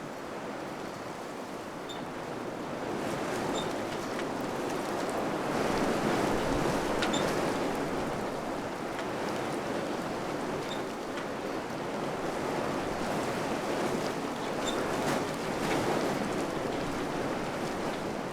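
Wind blowing in gusts, swelling to its strongest about six seconds in and then easing a little, with a few faint short high ticks.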